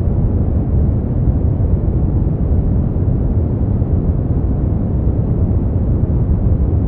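A steady sleep-aid noise track sold as white noise. It is an even, unbroken rush that never changes, deep and rumbly with little hiss at the top, so it sounds closer to brown noise than to true white noise.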